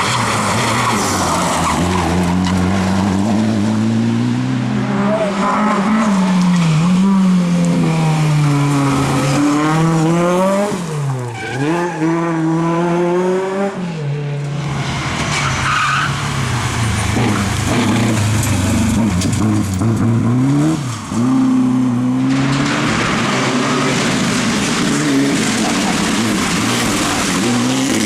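Rally cars driven hard on a special stage: engines revving up and dropping sharply through gear changes and lifts, with tyres skidding and squealing. The engine note swings up and down many times, and the sound changes abruptly twice, as one car gives way to another.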